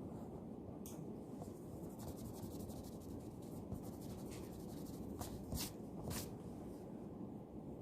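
Handwriting on paper: a run of quick, fine scratching strokes, then a few sharper strokes a little past the middle, over steady low room noise.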